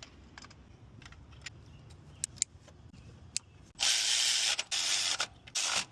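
Small clicks of tools and parts being handled, then three loud hissing bursts, each under a second long, starting about four seconds in.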